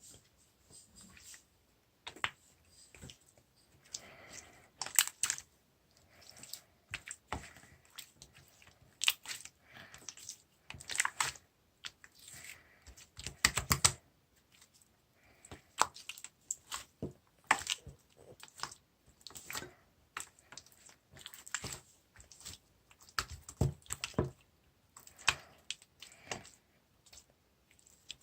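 Slime being squeezed and pressed by hand, making irregular bursts of small sticky clicks and pops with short pauses between them.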